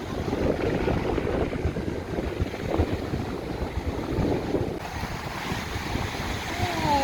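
Sea waves washing onto the shore, with gusty wind buffeting the microphone.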